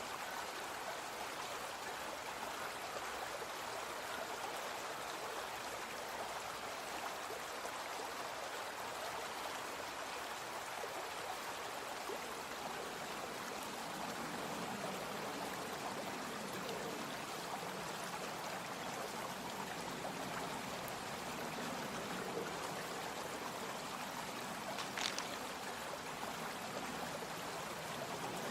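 A brook flowing steadily, an even rush and trickle of water. A brief sharp high click about three-quarters of the way through.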